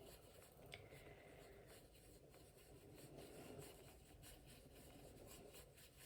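Near silence with faint, irregular strokes of a watercolour brush across a postcard.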